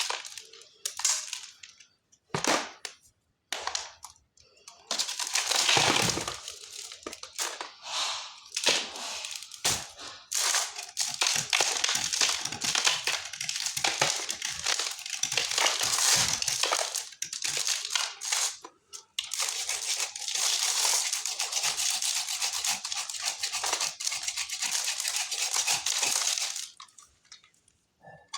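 Khadiya chalk being crushed and crumbled, a dense crackling crunch. A few separate crunches come first, then a long near-continuous stretch that breaks off briefly partway through and stops shortly before the end.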